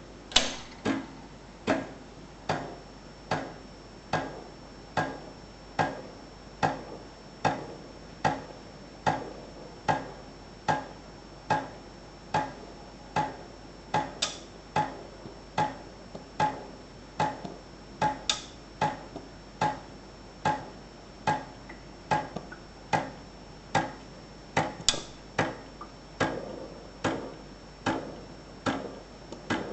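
Ascaso Dream espresso machine making a regular clicking noise, a sharp click with a brief ring a little more than once a second, over a faint steady high whine.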